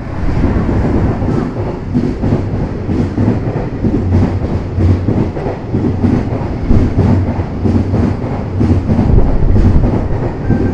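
A JR Freight EF210 electric locomotive hauling a high-speed container freight train passes at speed close by, the sound jumping up loudly as it arrives. The long line of container wagons follows with a continuous loud rumble and repeated wheel clacks.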